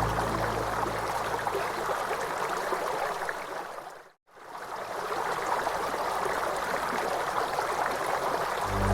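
Flowing stream water, a steady rush, that fades out to silence about four seconds in and fades back in. Soft new-age music with steady low notes comes back near the end.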